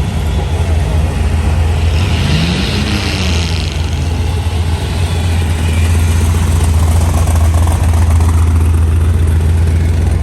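A car engine running with a deep, steady rumble. About two seconds in, it revs briefly up and back down.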